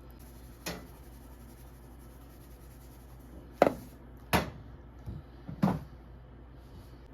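Kitchen clatter: five or so short, sharp knocks and clunks of cookware and utensils being handled, over a steady low hum.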